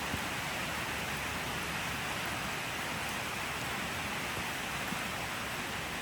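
Steady rain falling, a dense even hiss with fine irregular patter of drops.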